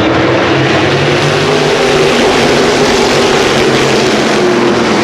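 NASCAR Whelen Modified race cars' V8 engines running hard on track, a steady, loud, dense engine noise with no clear single pass.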